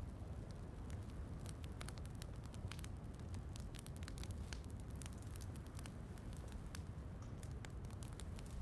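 Wood fire crackling with many small, irregular pops and snaps over a steady, low rushing bed of rain.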